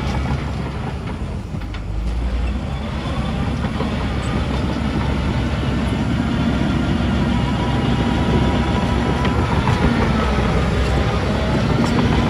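Heavy diesel construction machinery running under load, a steady engine drone with faint whining tones, growing louder after the first couple of seconds.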